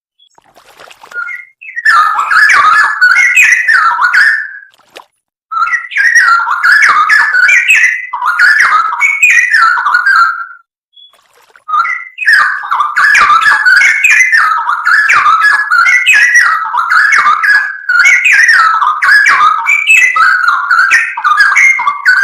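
Straw-headed bulbul (cucak rowo) singing loud, rapid, rising and falling whistled phrases, in three long bursts separated by short pauses.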